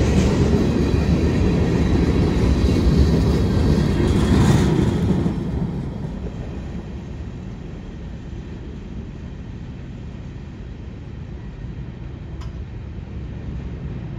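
Freight train of covered hopper cars rolling past close by: a loud, steady rumble of steel wheels on rail. About five seconds in it drops to a quieter, more distant rumble as the train's last cars roll away.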